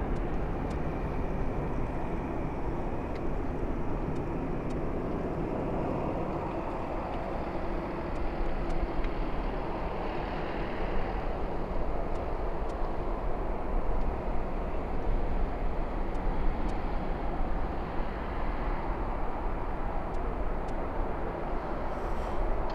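Airbus A380 airliner's jet engines on landing approach: a steady rumble with a faint high whine, growing a little louder about eight seconds in.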